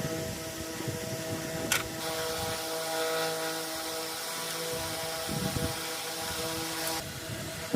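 A machine running with a steady hum made of several held tones over a hiss, with a sharp click a little under two seconds in; the sound shifts slightly about seven seconds in.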